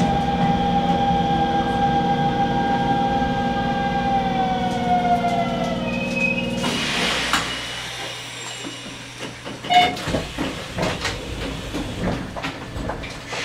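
Electric train's traction motors whining, the whine falling in pitch as the train brakes to a stop at a station, then a short hiss of air about seven seconds in. After that, a quieter low hum with scattered clicks and knocks from the stopped train.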